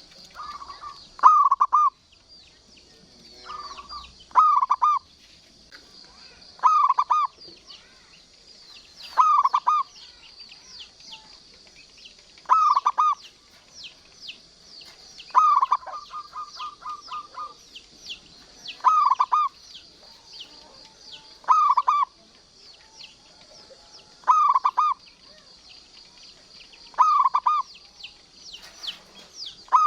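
Zebra dove (local perkutut) cooing: a short phrase of a few quick notes, repeated about every three seconds. The call around the middle runs on into a fast string of repeated notes. A steady high chirring with small chirps sits behind the calls.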